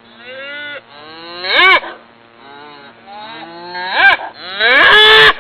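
Cow mooing: a series of short and long calls that rise and fall in pitch, with a loud short moo about a second and a half in and a longer, loud moo near the end.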